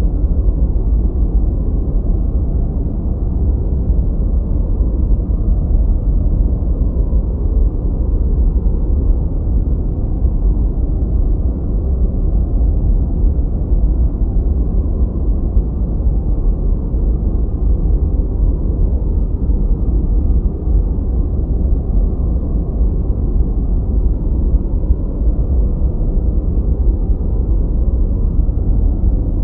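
Continuous generated noise for masking, steady and even throughout; it is deep and rumbling, with almost nothing in the highs.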